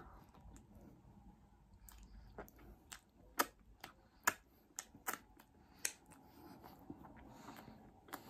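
A person chewing food close to the microphone, with irregular sharp wet mouth clicks and smacks, most of them in the middle of the stretch.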